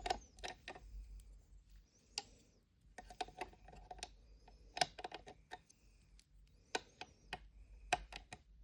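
Light, irregular clicks and taps of small plastic miniature toy pieces being handled and set down in a toy fridge.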